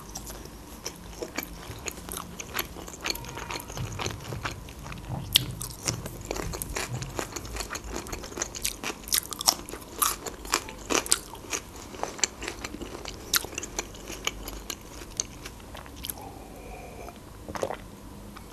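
Close-up eating sounds: crisp bites and crunchy chewing of fried khinkali dumplings and raw vegetables, many sharp crunches. A sip of water near the end.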